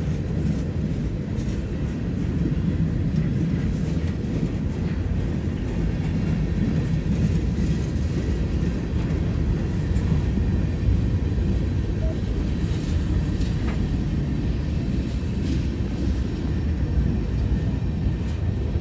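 Diesel locomotive engine rumbling steadily.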